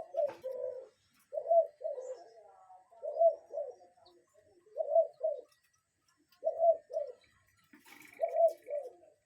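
A bird repeating a low two-note hooting call, one pair of notes about every one and a half to two seconds.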